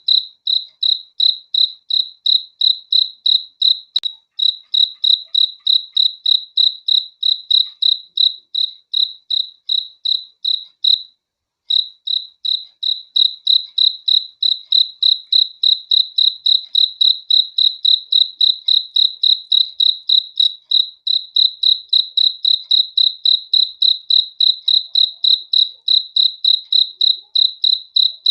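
A cricket chirping in a steady, even rhythm of about three high-pitched chirps a second, pausing briefly once near the middle.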